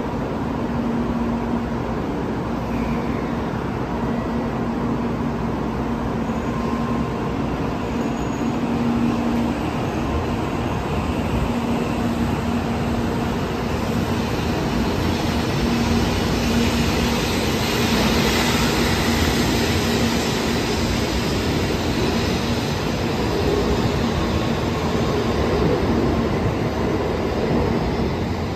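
N700-series Shinkansen pulling out of the station and gathering speed alongside the platform. A steady electric hum is heard at first, and the running noise builds and grows louder from about halfway through.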